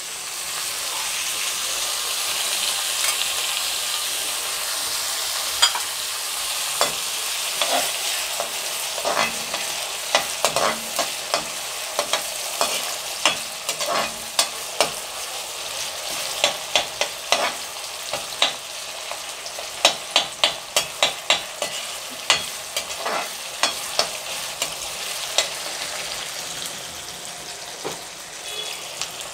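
Chopped tomato sizzling in hot oil with onion in a steel kadhai, a steady hiss that starts as the tomato goes in. A perforated steel skimmer stirring the mix clicks and scrapes against the pan, often in quick runs of several strokes.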